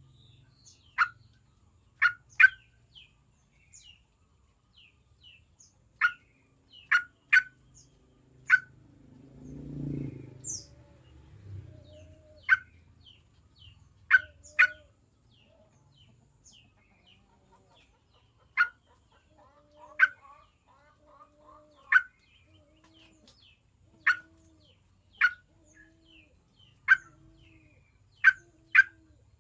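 Yellow-vented bulbul giving short, sharp call notes, singly or in quick pairs, every second or two, as a lure call to set another bulbul singing. A low rumble passes about eight to twelve seconds in, and faint low hoots repeat in the background in the second half.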